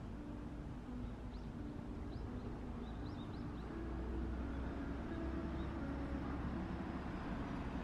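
A steady low rumble, like vehicle traffic, grows louder about four seconds in, under soft background music. A few faint, short, high bird chirps come in the first half.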